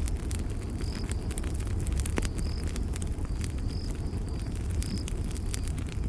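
Campfire crackling with scattered sharp pops over a low, steady rumble of burning wood. A cricket chirps about once a second.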